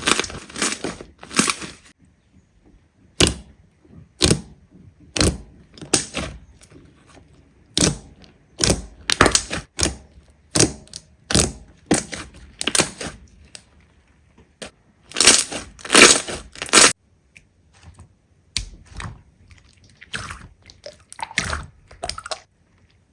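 Slime being squeezed and pressed by hand, giving an irregular run of short crackling, crunching pops, loudest in a cluster about two-thirds of the way through.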